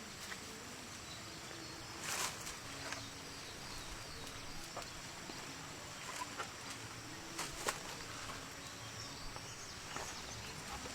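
Quiet outdoor ambience with a faint steady high tone and scattered light clicks and knocks, the loudest about two seconds in and again near the end.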